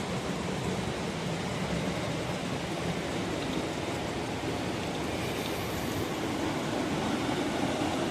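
Steady rushing noise with no distinct events, slightly louder near the end.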